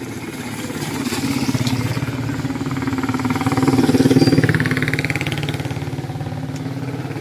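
A motor vehicle's engine passing close by, growing louder to a peak about four seconds in and then fading away.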